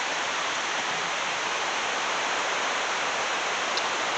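River water rushing over rapids: a steady, even rush with no change in level.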